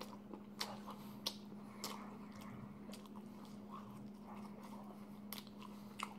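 A person chewing a mouthful of McDonald's burger close to the microphone: soft wet chewing with a few sharp smacking clicks. A faint steady low hum runs underneath.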